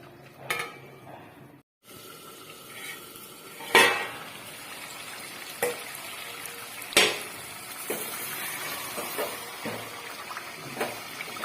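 Chicken masala frying in a pot, a steady sizzling hiss, with two sharp metal clanks against the pot, about four and seven seconds in, and a few lighter clicks.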